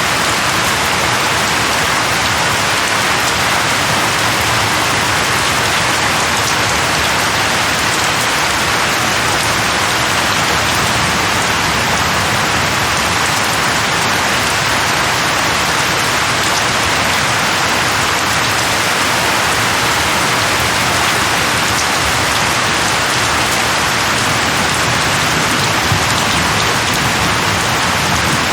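Steady heavy rain falling on a surface, an even hiss with no let-up.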